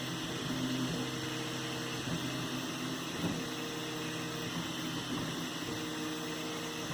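3D printer running a print: its stepper motors give off pitched tones that start, stop and change pitch every second or so as the head moves, over a steady hum.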